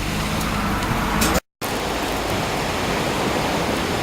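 Surf breaking and washing on the beach, a steady rush of noise, cut off for a split second by a brief dropout about one and a half seconds in.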